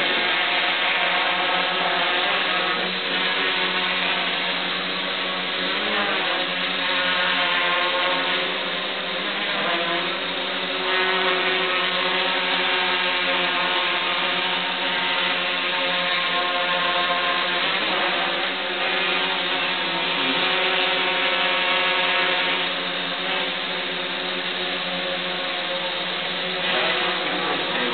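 Electric rotors of a small Ascending Technologies micro aerial vehicle hovering: a steady buzzing hum of several tones, its pitch wavering and shifting every few seconds as the motor speeds change to hold position.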